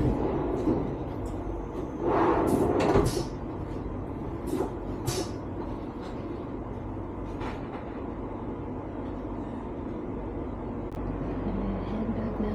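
Cabin noise inside a moving ICE train: a steady low running rumble, with a louder clattering rustle about two seconds in and a few lighter knocks after it.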